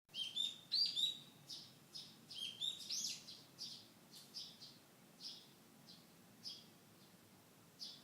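Wild songbirds singing. A quick phrase of high chirps comes twice in the first three seconds, then short single chirps follow about every half second, thinning out toward the end.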